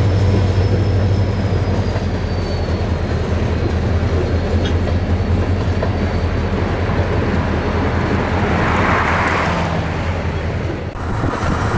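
Train rolling past on the rails, with a steady low drone under rumbling wheel noise. The sound changes suddenly near the end.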